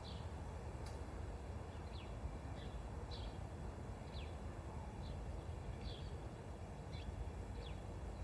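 Faint background ambience of short, high bird chirps, each a quick downward sweep, coming irregularly about once or twice a second over a low steady hum.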